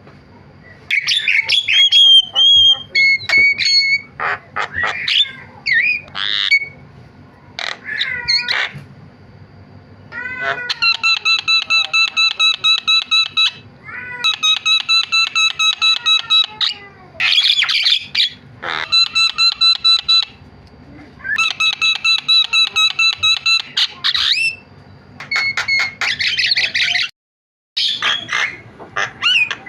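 Javan myna singing a busy, chattering song. Harsh squawks and whistled slides alternate with several runs of fast, identical repeated notes, each lasting a few seconds. There is a brief break near the end.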